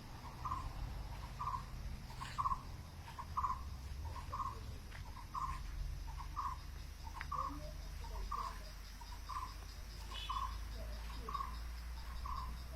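A bird at the nest giving short, identical calls over and over, about two a second, over a steady low hum.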